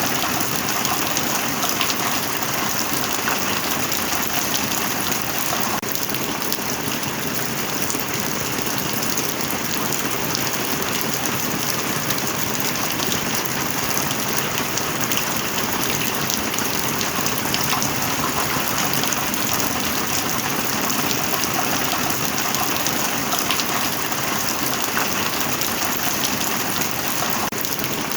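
Steady heavy rain, a dense even hiss with many individual drops ticking through it.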